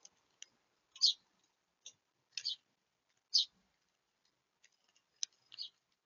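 Small birds at a seed feeder make about ten short, high, sharp clicks and chips at irregular spacing. The loudest come about a second in and at about three and a half seconds.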